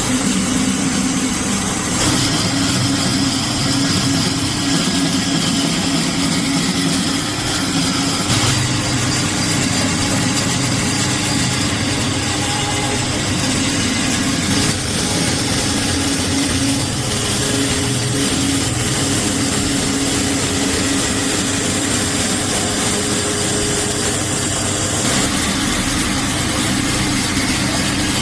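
Electric power tool running steadily under load, its tone shifting slightly every several seconds.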